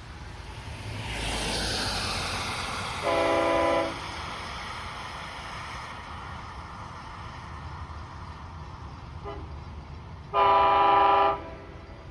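Long Island Rail Road DM30AC locomotive's horn sounding two short blasts about seven seconds apart as the train comes into the station, over the rumble of the approaching train.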